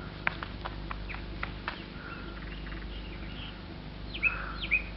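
Birds chirping: short, high calls, many sweeping downward in pitch, coming more often near the end, over a faint steady hum.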